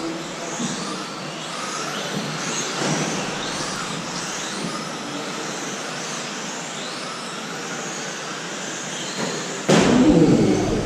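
Several electric RC trucks with brushless motors whining around the track, several high pitches rising and falling as they speed up and brake. A sudden louder rush of sound comes in near the end.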